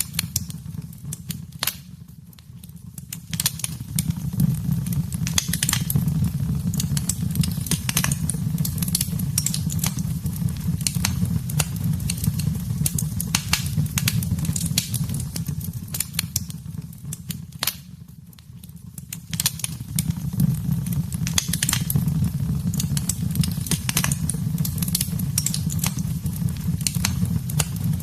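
Wood fire in a fireplace crackling, with irregular sharp pops and snaps over a low, steady rumble of flames. The sound dips quieter twice, about two seconds in and about eighteen seconds in, then comes back up.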